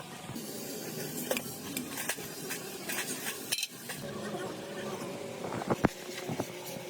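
Metal tools and engine parts clinking and knocking as they are handled, in scattered light strikes with a sharper knock near the end.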